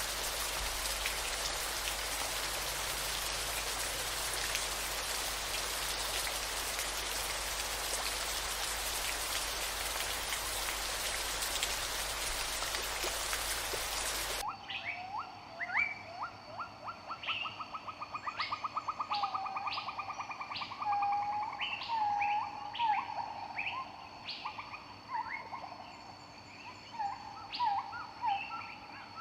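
Steady hiss of heavy rain, then a sudden cut about fourteen seconds in to birds singing: a fast trill and repeated short whistled notes, over a faint steady high-pitched drone.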